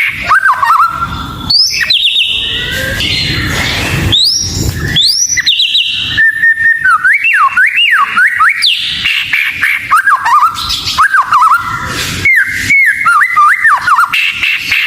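White-rumped shama (murai batu) singing a varied, continuous song of clear whistled notes, quick up-and-down glides and short rapid trills.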